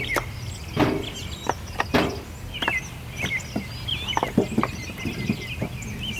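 Chickens clucking amid many short, high bird chirps, with several sharp knocks at irregular intervals.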